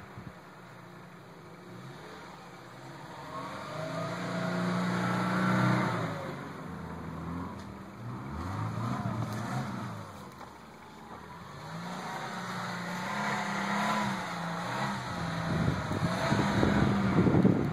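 Subaru wagon's engine revving up and down in repeated surges as the car spins donuts in snow, its wheels spinning and churning the snow. The revs rise and fall several times, loudest near the end.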